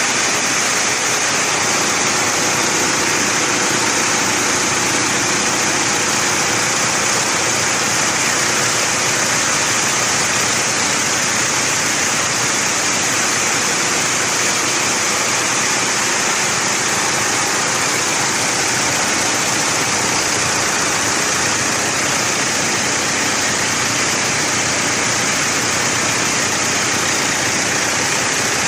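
Mitsubishi Triton 2.8 turbo diesel engine running steadily, a constant even noise with no changes in speed.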